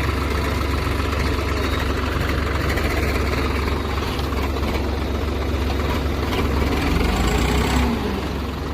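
Tractor engine running steadily with a deep, constant hum.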